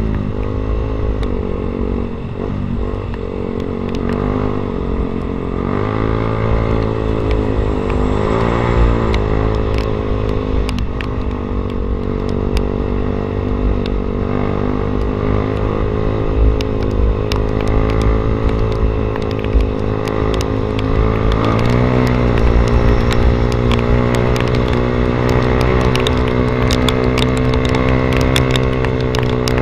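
Yamaha Vixion's single-cylinder engine running through an aftermarket SC Project exhaust while riding. The exhaust note dips and climbs several times in the first ten seconds or so with throttle changes and gear shifts, then holds a steady cruise, with one more dip and pickup about 22 seconds in.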